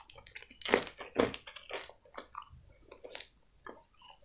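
Biting and chewing of a breaded fried chicken wing: irregular mouth sounds, the loudest bites about a second in.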